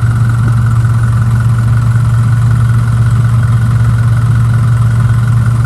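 Isuzu NQR sweeper truck's 5.2-litre diesel running steadily, mixed with the constant hum of the Tymco sweeper's vacuum, which is driven by a Kubota four-cylinder diesel auxiliary engine. The vacuum partly masks the truck engine.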